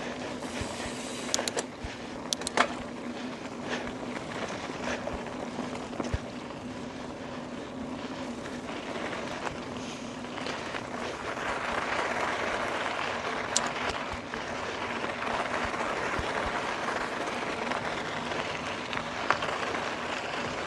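Trek Roscoe 8 mountain bike being ridden: steady rolling noise from the tubeless tyres and drivetrain with a low steady hum, a few sharp clicks and rattles in the first few seconds, and the rushing noise growing louder about halfway through.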